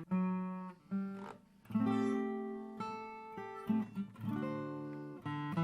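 Acoustic guitar music: a handful of strummed and plucked chords, each ringing out and fading before the next.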